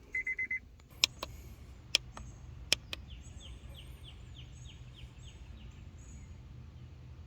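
Handheld battery and scan tester beeping a quick run of four beeps, then a few sharp clicks, followed by a fast series of short rising chirps like a bird calling, over a low steady hum.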